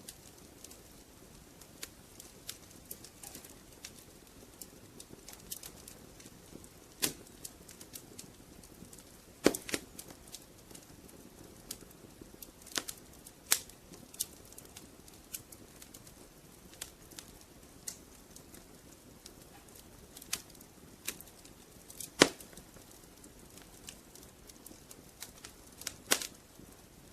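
Wood fire crackling in a fireplace: irregular sharp pops and snaps over a soft low hiss, with a few louder pops standing out.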